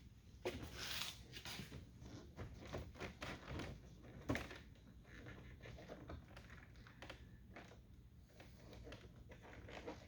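Faint handling noises of a rubber door seal and plastic trim being worked by hand on a truck door: scattered small clicks and rustling, with one sharper click about four seconds in.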